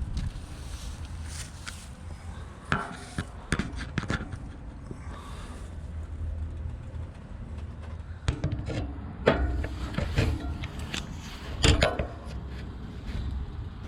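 Irregular close-up scrapes, rubs and knocks, a dozen or so with the loudest near the middle and end, over a steady low rumble.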